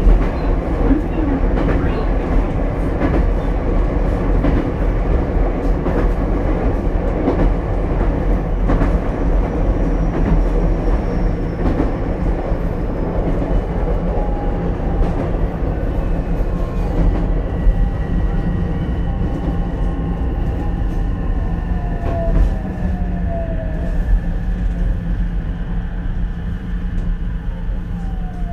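Onboard running sound of an Ichibata Electric Railway 7000-series railcar: wheels rumbling and clicking over the rail. From about halfway through, the motors whine in falling tones as the car slows, braking toward the next stop.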